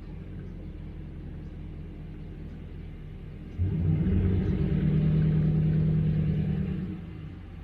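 An engine running with a low, steady hum. About three and a half seconds in it suddenly gets louder for some three seconds, then drops back to the steady hum.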